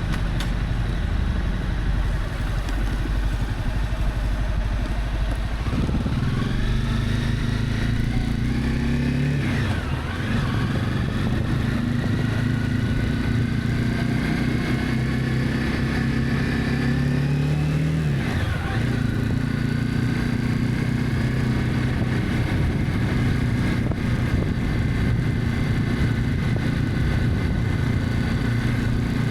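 Honda CB300F motorcycle engine pulling away and accelerating. Its pitch climbs, drops at gear changes about ten and eighteen seconds in, then holds steady at cruising speed.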